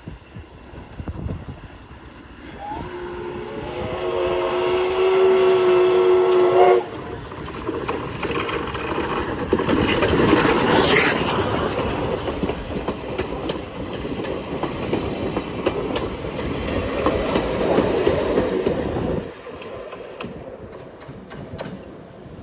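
Steam locomotive whistle blowing one long, steady note for about four seconds, then the steam train's loud running noise and wheel clatter for about twelve seconds before it drops away near the end.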